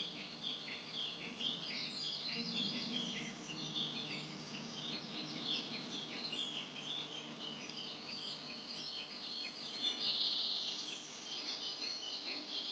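Many birds chirping and twittering together in a dense chorus of short, high calls.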